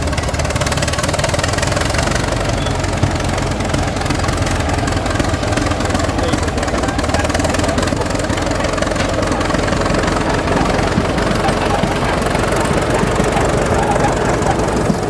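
An engine running steadily at an even speed, with a low, constant beat.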